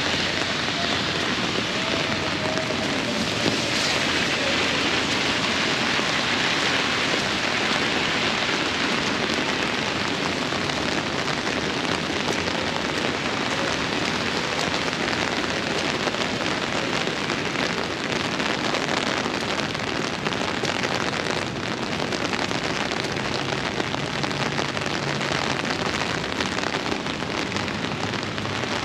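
Steady downpour of rain, an even, constant hiss of rainfall.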